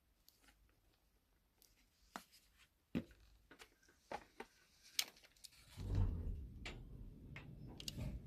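Sounds of work on an elevator: scattered sharp clicks and knocks, then from about six seconds in a steady low rumble with a few more clicks.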